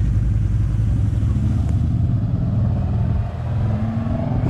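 Volvo car engine running with a steady low rumble, shortly after being brought back to life.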